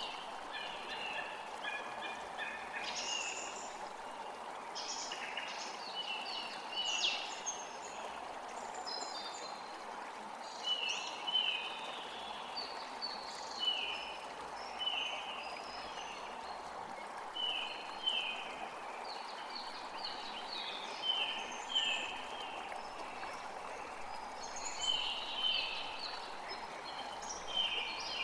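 Birds chirping and singing in short notes, several of them a repeated falling note, over a steady rushing background hiss.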